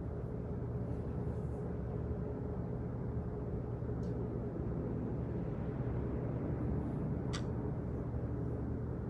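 Steady low-pitched hum of office background noise, with a faint click about four seconds in and a sharper click a little after seven seconds.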